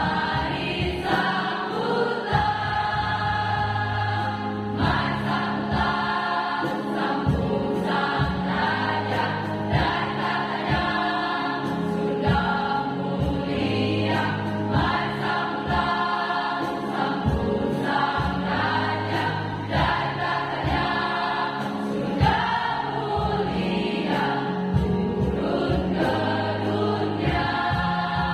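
High-school choir singing a Christmas song in Indonesian in several parts, over an accompaniment with sustained low notes and a steady beat.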